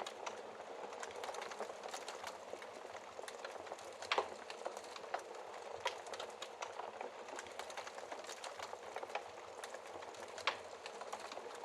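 Wood fire crackling behind a glass fireplace shield: a steady soft hiss with many small scattered pops. A sharper pop comes about four seconds in and another near the end.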